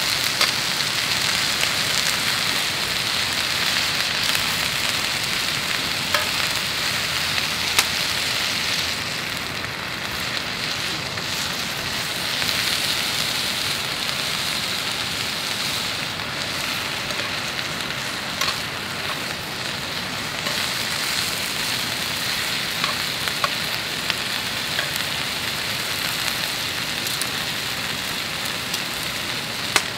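Food sizzling in a pan: a steady frying hiss with scattered sharp pops.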